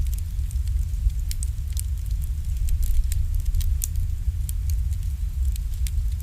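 Wood campfire crackling: many sharp, irregular pops and snaps over a steady low rumble.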